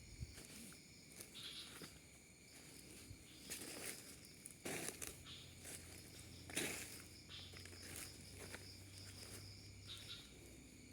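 Faint, irregular footsteps rustling and crunching through undergrowth, over a quiet outdoor background with insects.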